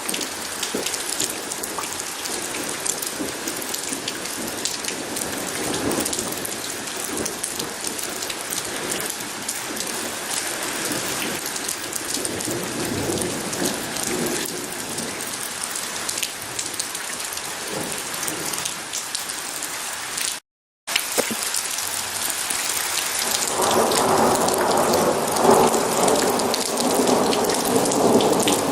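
Steady rain falling, with faint thunder rumbling now and then. The sound cuts out to silence for a moment about two-thirds of the way through, and a louder roll of thunder rumbles near the end.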